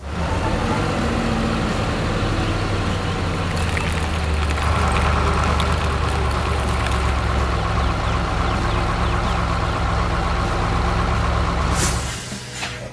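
Heavy truck diesel engine running with a steady low rumble. It starts suddenly and grows a little louder about four to five seconds in. Near the end comes a short hiss, and then the engine dies away.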